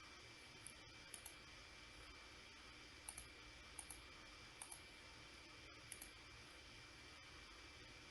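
Faint computer mouse clicks: six quick clicks, most of them in close pairs like press-and-release or double-clicks, over a low steady hiss with a faint high whine.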